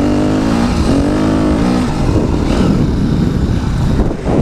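Dirt bike engine running, heard from the rider's helmet-mounted camera. Its pitch rises and falls with the throttle, and it grows rougher and less even about halfway through.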